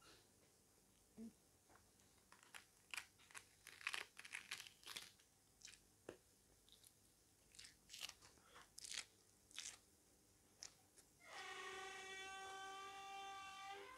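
Close-up eating sounds: a string of crisp crunches as fresh iceberg lettuce leaves are bitten and chewed. Near the end comes a steady, held tone lasting about three seconds.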